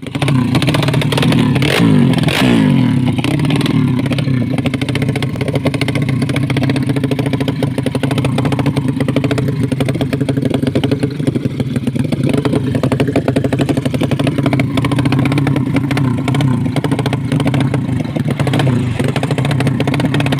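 Motorcycle engine running steadily at idle, with a short rev about two seconds in whose pitch drops back to idle.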